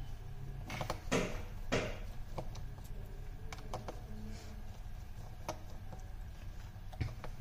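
Small clicks and rustles of parts and tools being handled on a repair bench, the loudest a short cluster about a second in, over a low steady hum.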